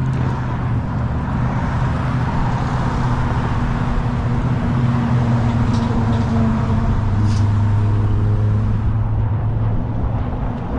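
Road traffic: a motor vehicle engine running steadily, its pitch shifting about seven seconds in, with wind rumble on the microphone.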